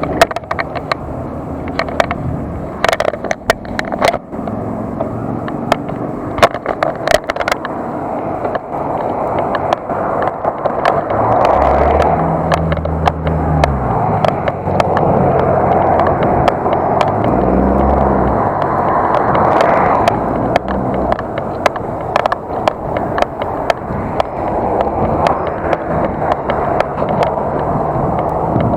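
Bicycle being ridden, heard from a camera mounted on it: steady tyre and wind noise with frequent sharp rattles and knocks from bumps. A low hum swells up twice in the middle.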